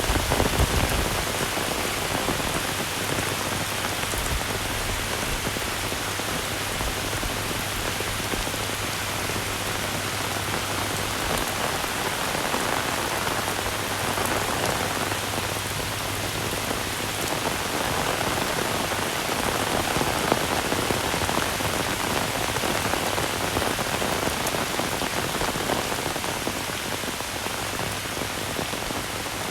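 Heavy rain falling steadily, a dense, even hiss of drops on surfaces. A low steady hum lies underneath and stops about a third of the way in.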